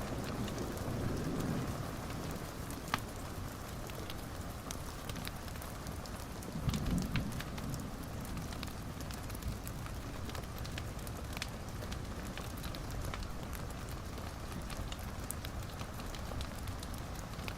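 Wood fire crackling in a fireplace: a steady hiss with scattered small pops, one sharper pop about three seconds in, and two soft low rumbles around one and seven seconds in.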